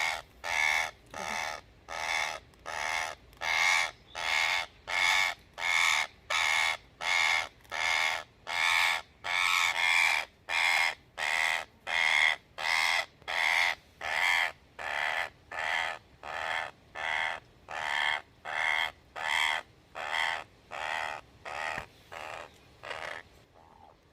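A trapped parrot with its leg caught screeching in distress, one harsh call about every half second without a break, growing weaker near the end.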